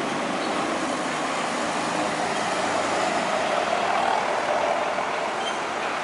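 Trucks and other traffic passing on a highway: a steady rush of tyre and engine noise that swells a little near the middle.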